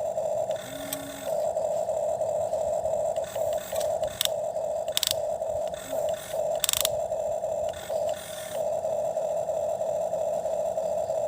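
Small electric motor of a toy excavator whining steadily at one pitch, cutting out briefly several times, with sharp clicks and scrapes of the digging at those breaks.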